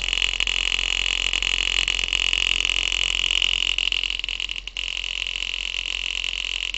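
Homemade thermoacoustic engine running and driving a balloon diaphragm, its metal piston rod rattling rapidly against the surrounding parts in a continuous fast buzz. It falters briefly about two-thirds of the way through, then carries on.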